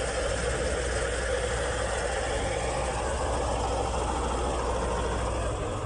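An engine running steadily, with a low, even hum.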